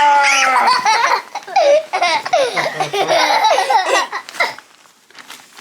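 Young children laughing loudly, the laughter dying down about four and a half seconds in.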